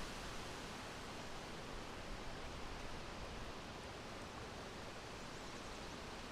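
Wind blowing steadily, a continuous soft rushing and rustling with no gusts or breaks.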